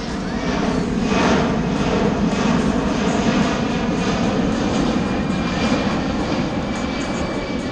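Boeing C-17 Globemaster III's four Pratt & Whitney F117 turbofans running during a slow-speed flyby pass. The loud, steady jet rush swells about a second in and then holds.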